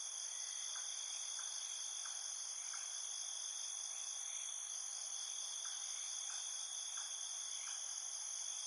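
Steady, high-pitched insect chorus of crickets, droning continuously on several pitches, with faint short chirps in two brief runs.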